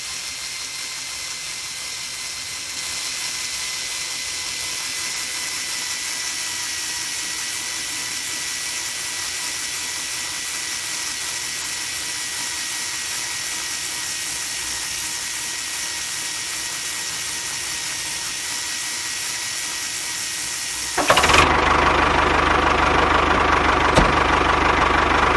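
Small electric motor of a homemade model post-hole digger running steadily with a thin whine, its pitch sagging slightly. About 21 seconds in it turns abruptly louder and harsher.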